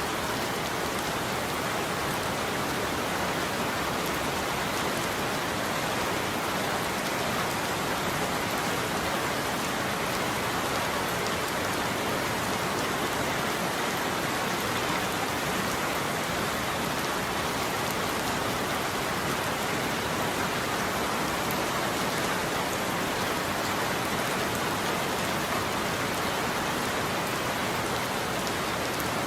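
Steady rain falling on a roof, an even patter with no thunder.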